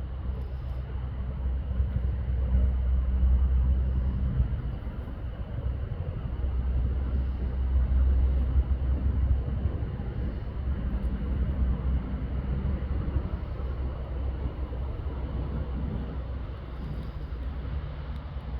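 Low, steady engine rumble in the distance, swelling and easing off twice.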